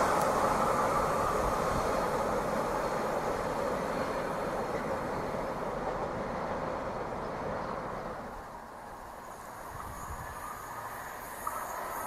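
A train passing on the line and moving away, its rolling noise fading steadily over about eight seconds and then levelling off.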